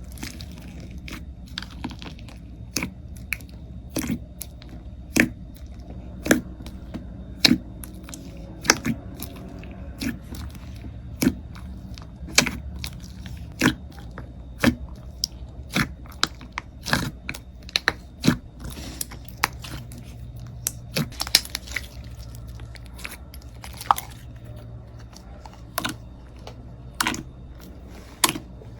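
Slime being squeezed and pressed by hand, giving sharp crunchy pops and crackles, most often about one a second, over a low steady hum.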